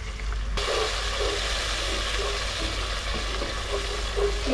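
Onion-tomato masala frying in ghee in a nonstick pan, sizzling steadily while a wooden spatula stirs it; the masala is fried down to the point where the ghee separates and rises to the top. The sound changes abruptly about half a second in, at a cut.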